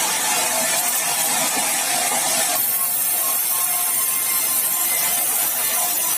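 Sawmill saw running and cutting through meranti timber: a steady, dense hiss with a faint motor whine under it, changing slightly about two and a half seconds in.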